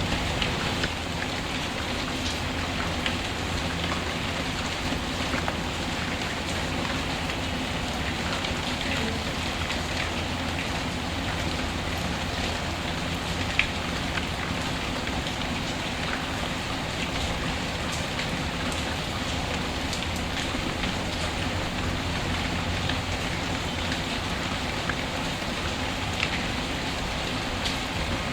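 Steady rain mixed with the scattered crackle of a wood fire, with one louder pop about halfway through.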